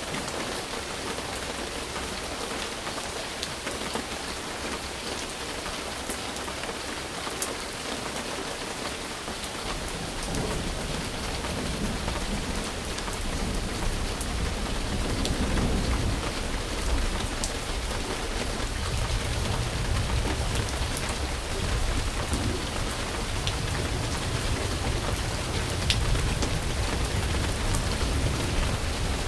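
Steady rain hissing, with scattered single drop ticks. About ten seconds in, a low rolling rumble of thunder builds and carries on.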